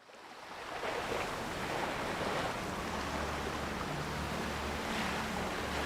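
Ocean water ambience, a steady wash with slow swells, over a soft ambient music drone of low held tones; it fades in over the first second.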